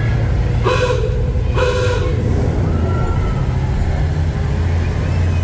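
Steady low engine and road rumble of a 1948 Ford F5 bus on the move, with a horn tooting twice in quick short blasts about a second in.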